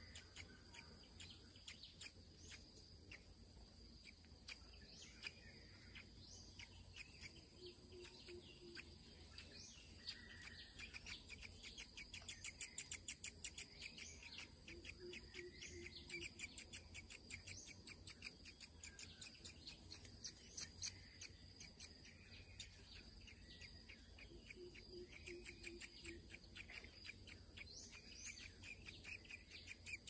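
Faint bird calls: scattered short chirps, and stretches of rapid high-pitched chirping that grow louder for a few seconds at a time. A low doubled hoot sounds three times.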